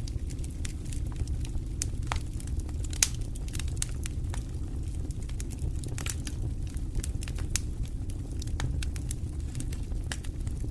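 Wood fire burning in a fireplace: a steady low rumble with irregular crackles and pops, one sharper pop about three seconds in.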